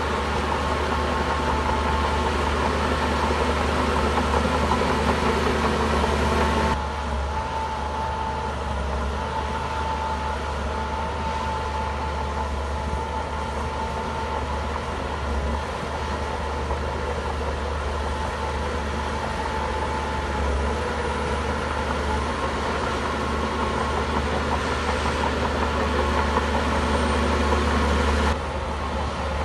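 Shantui bulldozer's diesel engine running steadily, a low drone with a thin steady whine over it. The sound drops suddenly about seven seconds in and comes back up near the end.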